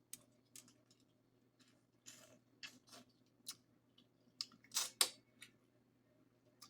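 Close-miked mouth sounds of someone eating: an irregular series of wet clicks and smacks while chewing, with the loudest pair about five seconds in.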